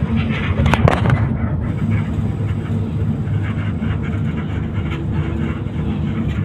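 Intercity bus running on the road: a steady low rumble of engine and road noise, with one sharp knock just under a second in.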